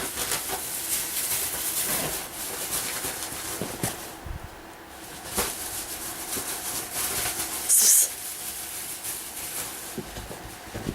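Blanket and bedding rustling and scuffling, with scattered soft knocks, as a cat is played with on a bed. A short burst of hissing noise comes about eight seconds in.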